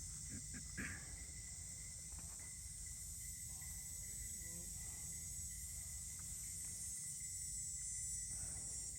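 Faint, steady high-pitched chorus of insects in a field, over a low rumble, with a few soft ticks in the first second.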